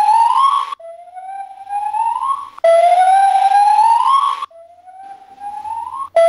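Gibbon calling: long whoops, each climbing smoothly in pitch over about two seconds, one after another with no break, alternating louder and softer.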